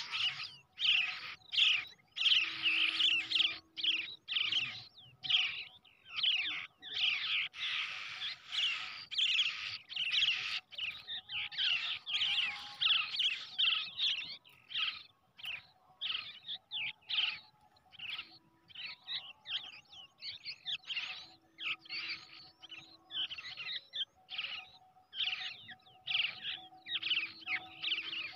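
Young brown shrikes calling: a rapid stream of short, high chirps repeated several times a second, in dense runs with brief gaps.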